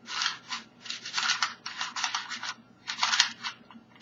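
Lan Lan 2x2 speed cube being turned by hand: bursts of plastic clicking and clattering as the layers are turned, two or three bursts a second with short pauses between.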